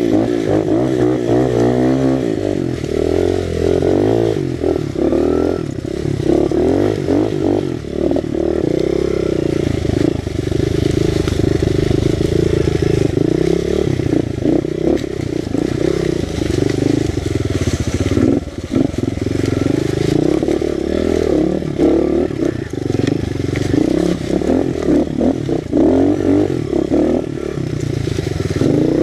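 Honda XR100 pit bike's single-cylinder four-stroke engine, fitted with a BBR 120 big-bore kit, revving up and down as it is ridden off-road, with knocks and clatter from the bike over rough ground.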